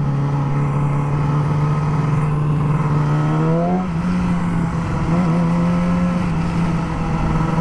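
Motorcycle engine running while riding; its steady note rises in pitch about three and a half seconds in as the bike speeds up, then holds level.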